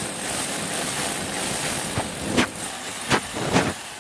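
Electric drill running with a 10 mm bit, boring mounting holes into a masonry wall, with several sharp knocks in the second half.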